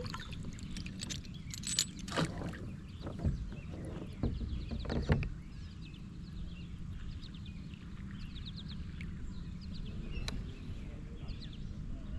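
Occasional sharp knocks and bumps on a kayak while fishing from it, over a steady low rumble, with faint short high chirps scattered throughout.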